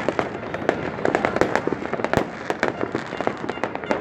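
Fireworks going off in rapid succession: a dense run of sharp bangs and pops, several a second, overlapping with crackle.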